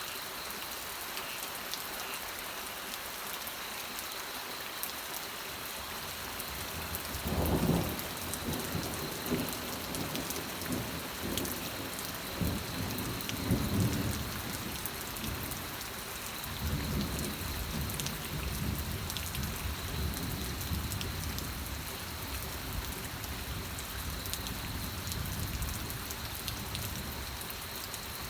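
Steady rain falling, with thunder rumbling in from about a quarter of the way in. The rumble swells twice, near 7 s and near 13 s, then rolls on more softly and dies away about three-quarters of the way through.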